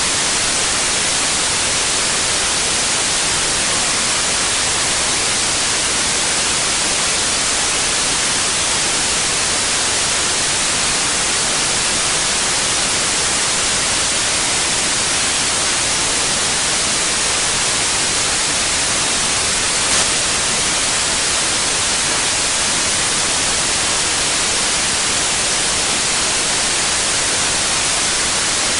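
Steady electronically generated white noise: a constant, even hiss, brightest in the high range, that does not change. A single tiny click sounds about twenty seconds in.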